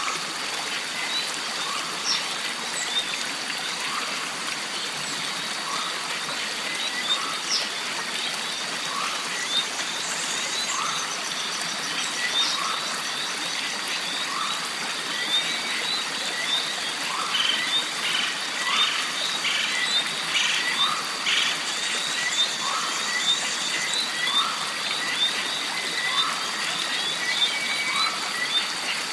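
Jungle stream ambience: water trickling, under a steady high insect drone, dense small chirps, and a short call repeating about once a second.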